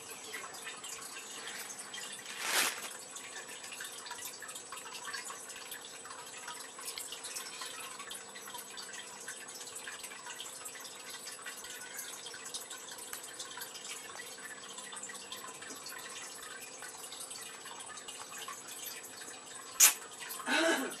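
Fire crackling with a dense run of small pops and ticks, a louder burst of noise about two and a half seconds in and a sharp crack near the end.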